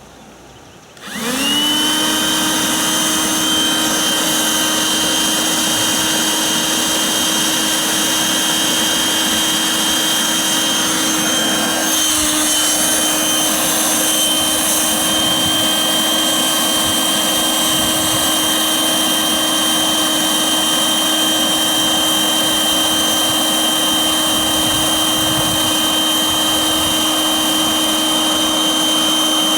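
Electric air pump switched on about a second in, spinning up quickly to a steady whine and running steadily while it inflates an inflatable boat's floor.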